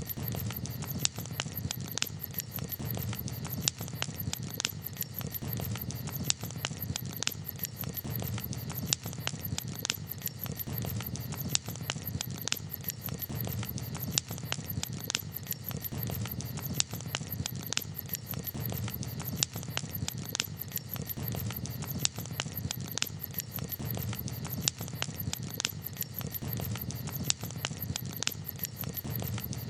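Wood campfire crackling: irregular sharp pops and snaps, about one or two a second, over a steady low rumble.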